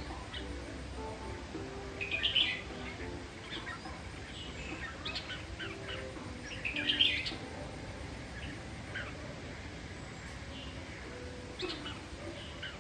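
Red-whiskered bulbul singing in short bursts of bright chirps, loudest about two seconds and seven seconds in, over soft background music.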